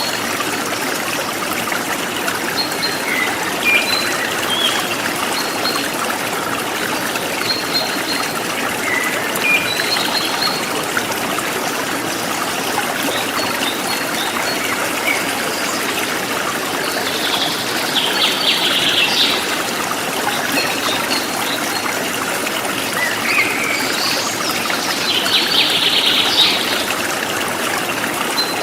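A forest stream trickling steadily, with short bird chirps scattered through it. Two louder spells of rapid bird song come, one about two thirds of the way through and one near the end.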